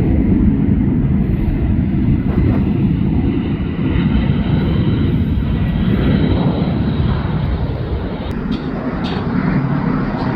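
Boeing 767-300ER jet airliner's engines at takeoff thrust, a loud steady rumble that eases slightly near the end. A few short sharp clicks come in about eight seconds in.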